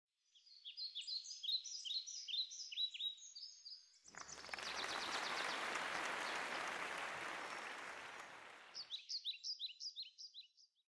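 A bird chirping in a quick series of short, falling chirps, about three a second. A long rush of noise then swells up and slowly fades over about five seconds, and the chirping returns briefly near the end.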